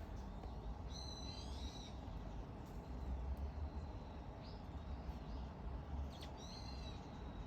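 Short, high chirping bird calls, in a bout about a second in and another near the end, over a steady low rumble.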